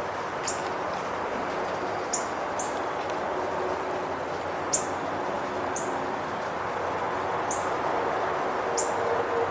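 A small bird chirping: about seven brief, high notes, each falling in pitch, scattered irregularly over a steady background hiss.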